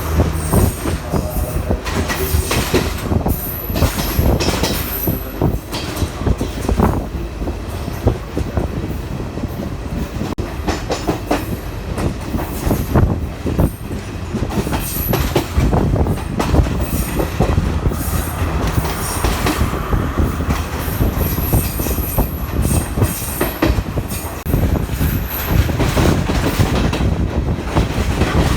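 Train running on the rails: a continuous, uneven clatter of wheels over the track, with short high-pitched wheel squeals now and then.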